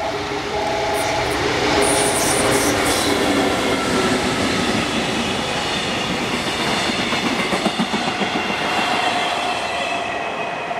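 A JR Freight freight train passing close by at speed: its wagons rolling past with a rhythmic clatter of wheels over rail joints and a thin high wheel squeal. A pulsing electronic warning tone sounds until about two seconds in.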